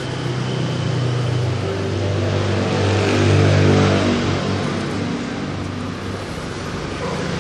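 A motor vehicle passing close by: a steady engine hum with a rush of noise that grows louder to a peak about halfway through and then fades.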